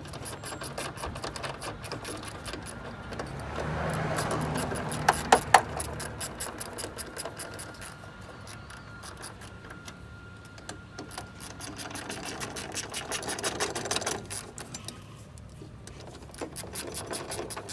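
Ratchet wrench clicking fast and steadily as the car door's hinge bolts are backed out, with a few sharp metal knocks about five seconds in.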